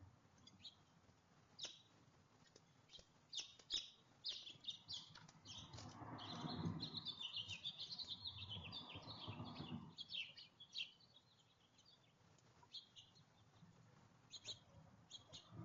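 Small songbirds chirping, short high chirps that come thick and fast for several seconds a little after the start, then thin out to scattered chirps. A low rushing noise sits under the busiest stretch.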